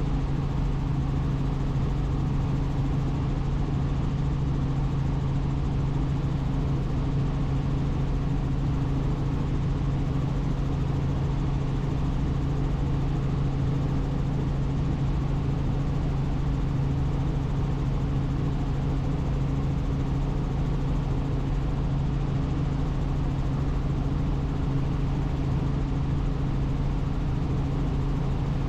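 Helicopter in flight, heard from on board: a steady, unbroken drone of rotor and turbine engine with a strong low hum underneath.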